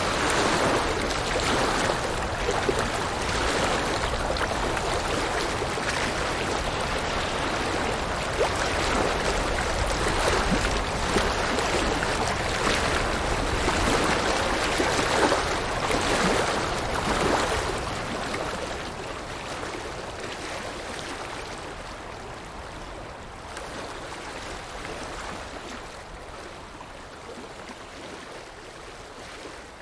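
River water flowing with a steady rushing sound that fades out gradually over roughly the last twelve seconds.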